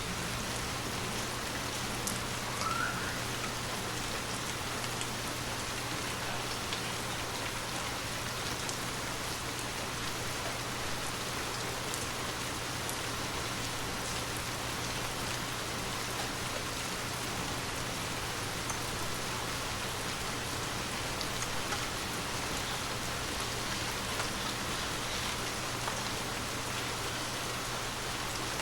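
Gentle rain falling steadily, with scattered sharper ticks of individual drops.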